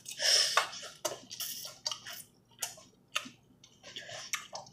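Close-up chewing and mouth noises of someone eating noodles: a louder wet burst just after the start, then a run of small irregular clicks and smacks.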